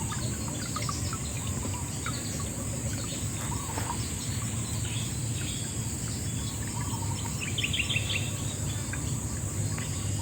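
Riverside nature ambience: a steady high insect trill over a constant low rush of flowing water, with birds chirping here and there and a quick run of chirps about three quarters of the way through.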